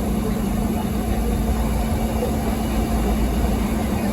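Steady running noise of a vehicle: an even low rumble with a steady hum that does not change.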